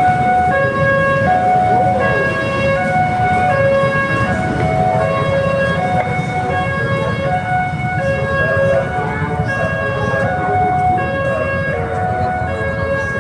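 A two-tone hi-lo siren, alternating between a higher and a lower note about every three-quarters of a second, over a steady background hubbub.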